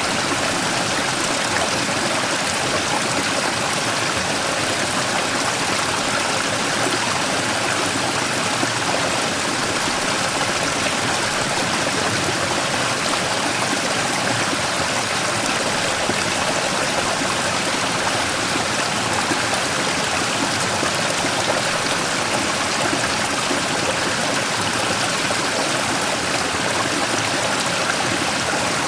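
Mountain stream rushing and splashing over a large rock, a small waterfall's steady, unbroken water noise.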